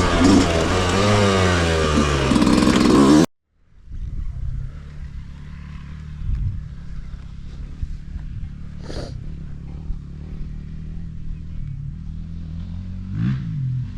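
Dirt bike engine running loud, its pitch rising and falling with the throttle. It cuts off abruptly about three seconds in, and after a moment a quieter, steady engine sound takes over at a lower pitch.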